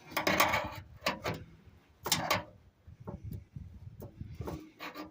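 Short metal scrapes and clicks from a screwdriver working against a chrome latch cover to bend it into place on a bus's rear engine lid.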